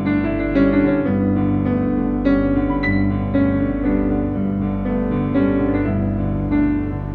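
Background music played on piano, notes struck about twice a second over sustained low chords.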